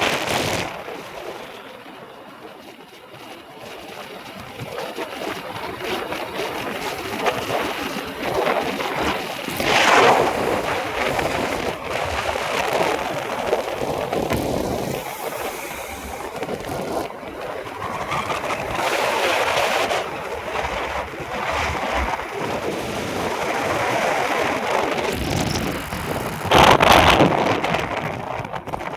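Road traffic noise, with vehicles passing by about ten seconds in and again near the end.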